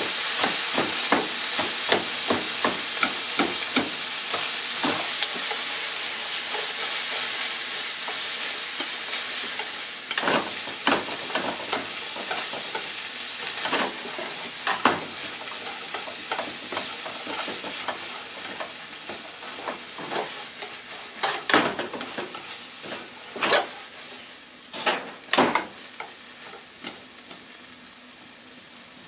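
Sliced onion and ham sizzling in a nonstick frying pan on a gas burner, with a wooden utensil and chopsticks clicking and scraping against the pan as the food is stirred and tossed. The sizzle fades gradually, and in the last third a few louder separate knocks of the utensil stand out.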